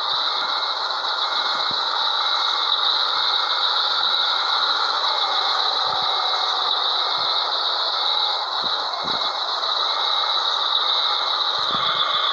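Scania 112H truck on the move: steady rattling and running noise, with a faint beep repeating a little under twice a second.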